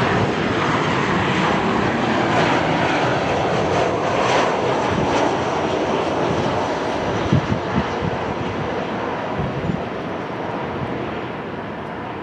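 Jet airliner engines roaring past, loud at first and slowly fading away. A few brief low thumps come a little past the middle.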